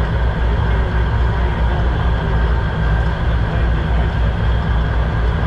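Service boat's engine running with a steady, loud low drone.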